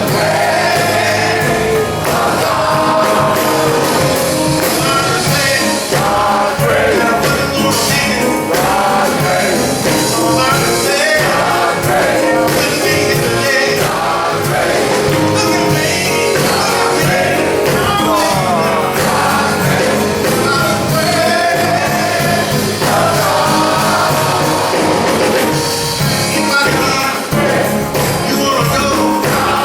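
Gospel song sung by a male chorus with instrumental accompaniment and a steady beat.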